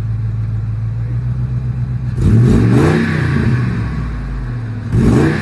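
Ford Expedition engine idling steadily, then revved twice, briefly each time (about two seconds in, and again near the end), the pitch rising and falling back to idle. The exhaust runs through newly fitted shorty headers that have cured an exhaust leak.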